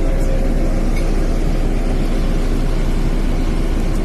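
Steady, loud engine drone heard from inside a passenger vehicle, a dense even hum with a few steady tones in it and no change in pitch or level.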